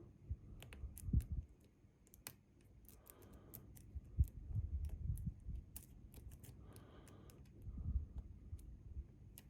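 Lock pick and tension tool working the pins of a Bi-Lock cam lock: faint, irregular small clicks and scrapes, with a few soft low knocks.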